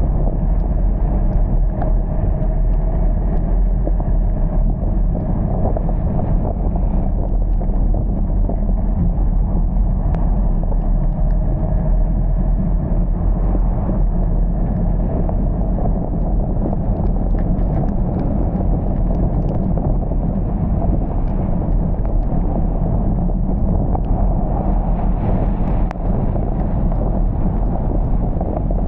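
Steady rumble of a car driving, engine and road noise running on without a break.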